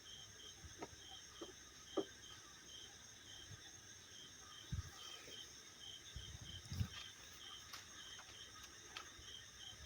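Faint, steady insect chirping, short pulses at about three a second, with a few soft clicks and low knocks scattered through it.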